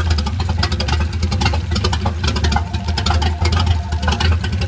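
1990 MerCruiser 4.3 V6 marine engine running loud and steady at idle, just after starting, with a rapid even pulse of firing strokes. It runs smoothly with no knocks.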